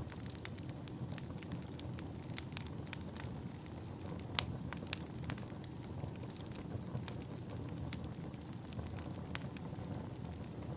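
Wood fire burning in a fireplace: a steady low rush of flames with frequent sharp crackles and pops, one louder pop about four seconds in.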